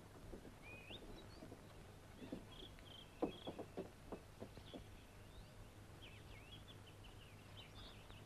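Faint birds chirping in short, rising and falling calls over a low steady hum. About three seconds in comes a quick run of about seven knocks or taps, lasting a second and a half.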